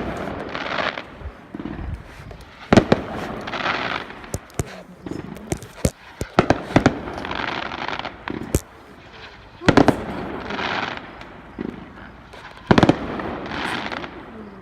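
Aerial fireworks bursting: a sharp bang about every three seconds, each followed by a second or so of crackling, with smaller pops in between.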